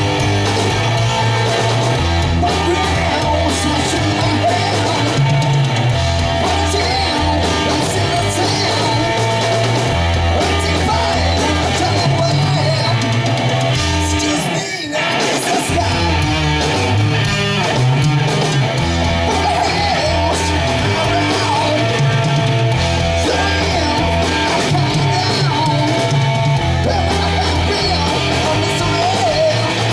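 Live rock band playing heavy electric-guitar music over a repeating bass line, with a brief drop-out about halfway through.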